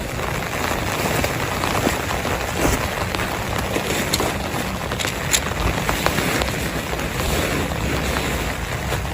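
Heavy rain falling steadily, a dense even hiss with scattered louder drop hits.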